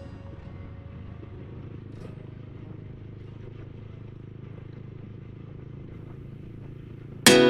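Motorbike running at a steady pace, a low even rumble with no clear rise or fall. Near the end, strummed acoustic guitar music cuts in loudly.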